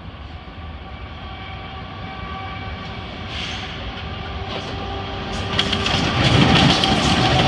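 Canadian National freight train's diesel locomotives approaching, their engine drone with a few steady tones growing steadily louder. About six seconds in, the lead locomotive reaches the camera and a loud clatter of steel wheels over the track joints and diamond crossing takes over.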